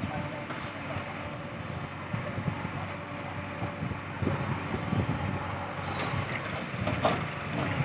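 Diesel machinery running during mud loading into a tractor trolley by a backhoe loader, a steady engine hum with dull thumps midway and a sharp clank near the end.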